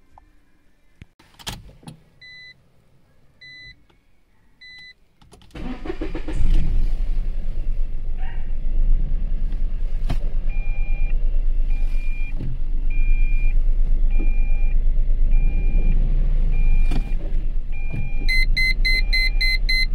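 Citroen C1's 1.0-litre three-cylinder petrol engine starting about five seconds in, after three short beeps, then idling with a steady low rumble. Over the idle a warning chime repeats about once a second, and quicker beeps come in near the end.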